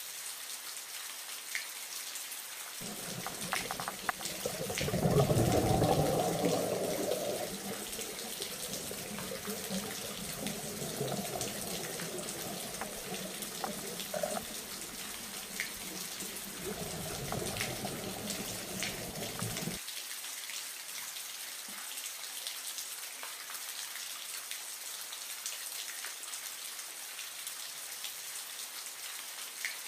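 Steady hiss of falling or splashing water with scattered small drips and ticks. A muffled low rumble joins about three seconds in, swells around five seconds, and stops sharply about twenty seconds in.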